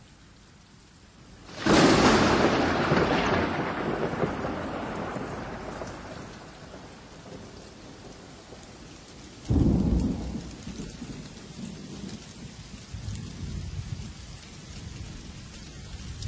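Steady rain with two thunderclaps: a loud crack about two seconds in that rumbles away over several seconds, and a second, deeper clap about halfway through that rumbles on.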